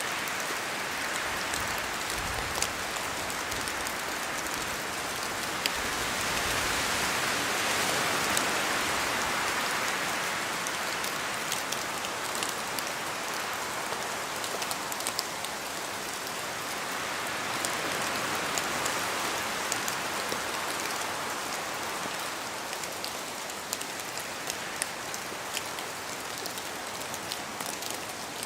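Steady rain falling in a spruce forest, with many separate drops ticking off the branches, under wind in the trees that swells twice, about a quarter of the way in and again past halfway.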